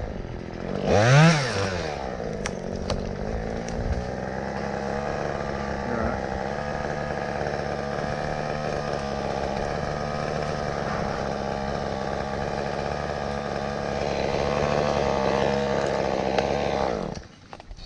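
Chainsaw revving a couple of times, then running steadily at high throttle while cutting through an ash limb, and cutting off about a second before the end.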